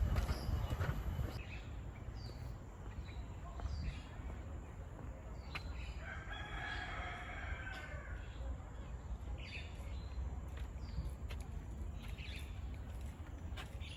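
A rooster crows once, one long call of about two and a half seconds in the middle, among short high bird chirps over a steady low rumble.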